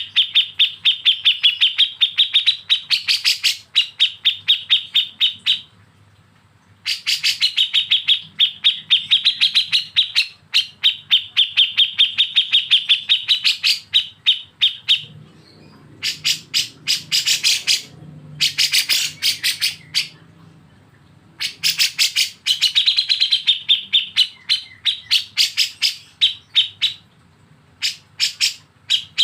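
Songbird's harsh 'besetan' chatter: fast runs of sharp, repeated notes, roughly ten a second, in phrases several seconds long separated by brief pauses.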